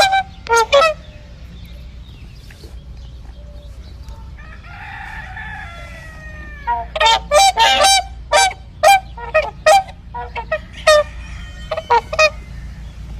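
Domestic fowl calling: two short loud calls, a longer falling call in the middle, then a quick run of short, sharp honking calls.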